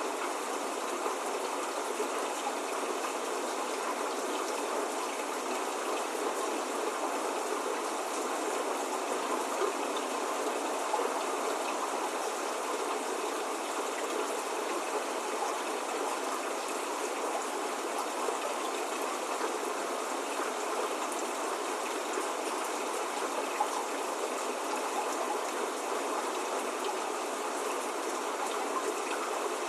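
Steady spring rain falling: an even hiss of rain with fine scattered drops, unchanging throughout.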